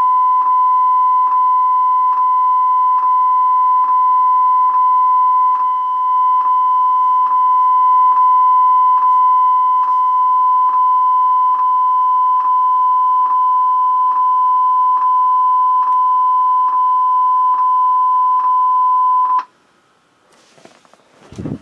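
Steady 1 kHz reference tone played back from a VHS tape, with faint ticks about once a second; it cuts off abruptly near the end, followed by faint scraping and rubbing.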